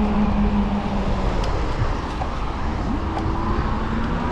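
Road noise and wind on the microphone while riding an e-bike in traffic, with passing cars droning: a low steady tone slowly falls, and a second tone rises from about three seconds in.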